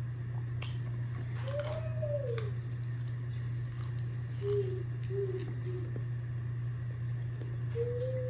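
Close-miked eating: chewing and crunching of food with small wet clicks, over a steady low hum. A short wavering whine-like call sounds about two seconds in, and two briefer ones around five seconds.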